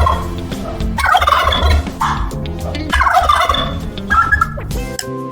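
Turkey gobbling: a run of raspy, rattling gobbles, about one a second.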